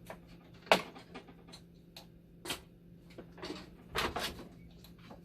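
Scattered clicks and knocks of parts and tools being handled while a dialysis machine is taken apart, the sharpest click about three-quarters of a second in and a short run of knocks near four seconds. A faint steady low hum lies underneath.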